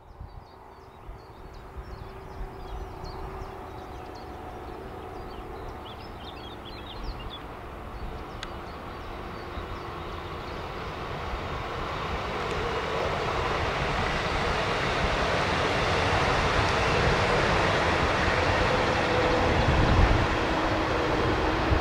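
DB Class 425 electric multiple unit approaching and running past on the track below, its running noise building steadily louder and loudest near the end. Birds chirp over the first several seconds.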